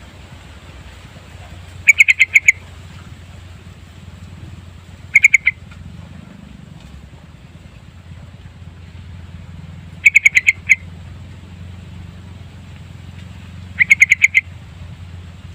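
Yellow-vented bulbul (trucukan) giving short bursts of rapid chattering notes, four times, over a steady low hum.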